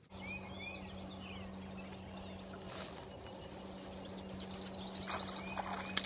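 Small birds chirping over a steady low hum, with a few short clicks near the end.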